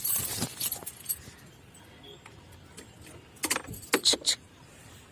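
Short jingling clicks, like keys shaken while walking, in two clusters: a few during the first second and several sharper ones about three and a half to four and a half seconds in, over a quiet outdoor background.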